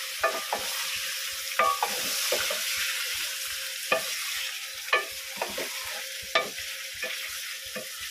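Chicken pieces sizzling steadily in oil in a metal pot while being stirred with a spatula, which scrapes and knocks against the pot about once a second.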